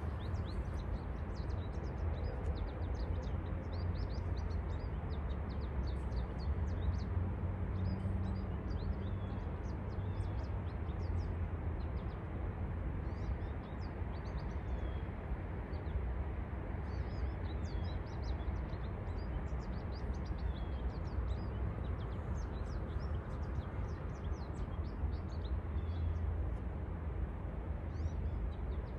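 Small songbirds chirping and twittering with many short, high calls over and over, above a steady low rumble.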